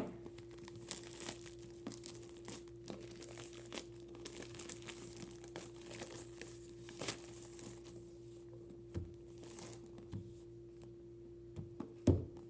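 Packaging being unpacked by hand: plastic and paper crinkling and rustling, with scattered small clicks and a sharper knock near the end, over a steady low hum.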